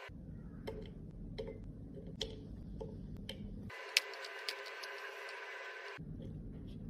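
Light, irregular clicks and taps of makeup containers and tools being handled, with the sharpest click about four seconds in, over a steady low hum.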